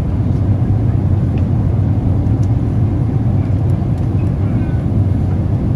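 Steady low rumble of cabin noise inside a Boeing 777-300ER airliner in flight: airflow and the drone of its GE90-115B engines, even in level.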